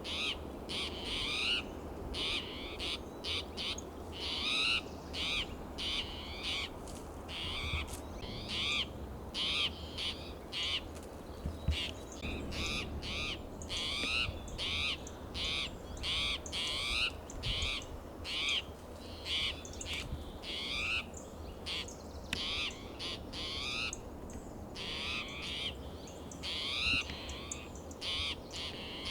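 Spotted towhee giving its alarm call over and over, short calls about once a second, from an agitated bird.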